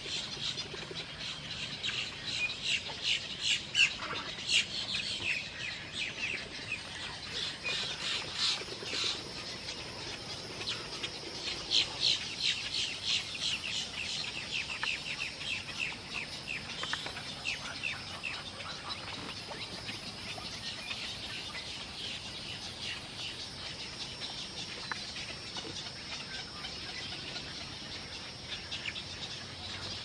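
Birds calling in rapid chattering series, busiest through the first half. A steady high-pitched drone comes in about a quarter of the way through and carries on underneath.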